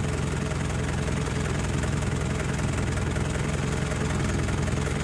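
Water pump filling the reservoir, its motor running with a steady low drone.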